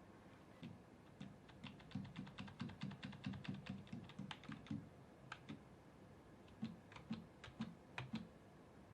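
Keys of a computer keyboard being pressed, most likely the MadCatz Modern Warfare 2 Limited Edition keyboard used with this PC: a quick run of clicks, about five a second, from about two seconds in, thinning to a few scattered presses near the end.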